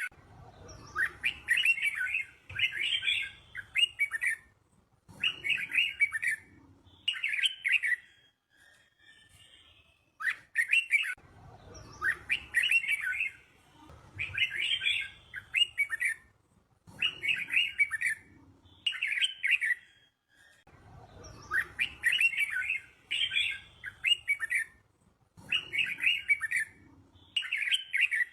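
Red-whiskered bulbul song: short, bright warbled phrases in quick succession, grouped into runs of several phrases with brief pauses between. The same run of phrases comes round again about every ten seconds.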